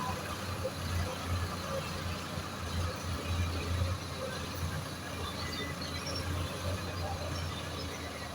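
Tractor engine running steadily with a low drone, a little louder for a few seconds mid-way.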